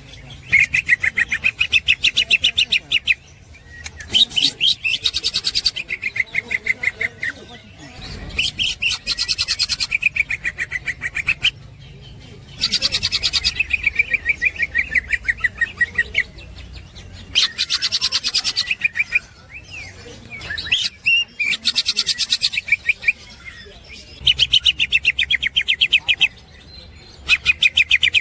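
Green leafbird (cucak hijau) singing its chattering 'ngekek' song: trills of fast repeated high notes, each lasting two to three seconds, repeated again and again with short pauses between them.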